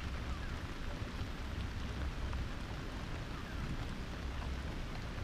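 Steady monsoon rain falling, an even hiss with a low rumble underneath.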